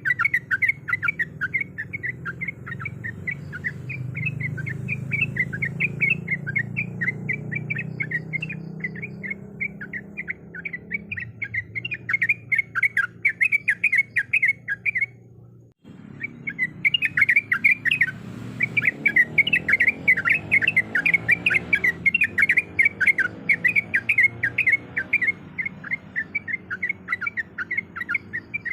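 Yellow-vented bulbul (trucuk) calling: fast chattering notes repeated several times a second, breaking off for a moment about halfway through and then resuming, over a low hum.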